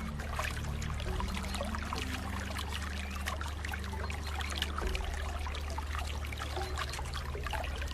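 Steady trickling and burbling of running water, like a small stream, with a few faint low held notes underneath.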